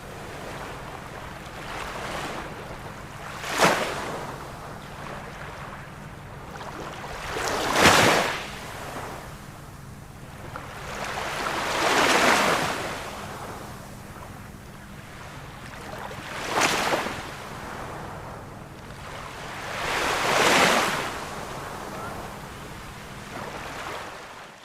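Ocean surf breaking in waves: five surges of rushing water about every four seconds, each swelling and then washing away over a steady background hiss of sea.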